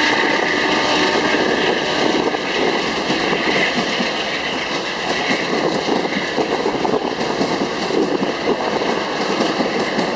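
Amtrak passenger train rushing past at speed: bilevel Superliner cars rolling by with a steady roar of steel wheels on rail and rapid clicking. A horn note carried over from the approach stops about a second in.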